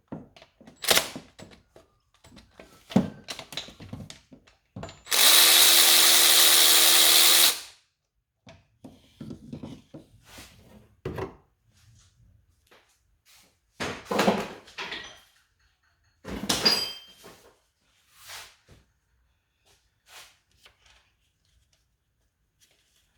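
A handheld power tool runs steadily for about two and a half seconds, spinning out a bolt from the engine. Short clicks and knocks of tools and metal parts being handled come before and after it.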